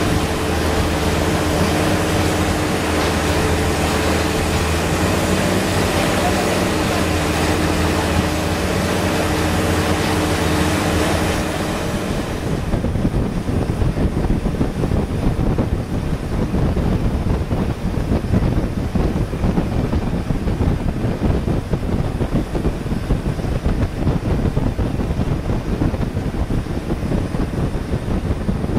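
Long-tail boat engine running steadily at cruising speed, a constant droning note over the hiss of the water. About twelve seconds in this gives way to an uneven low rumble of wind buffeting the microphone.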